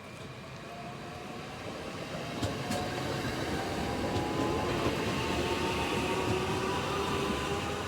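A train approaching and running past, growing louder over the first few seconds and then holding steady, with faint tones that slowly drift in pitch over the running noise.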